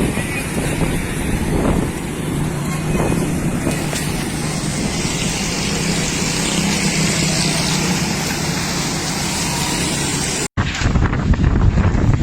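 Road traffic in a gusty dust storm: vehicle engines run steadily under a wash of wind noise. About ten seconds in, the sound cuts out for an instant, then wind gusts buffet the microphone.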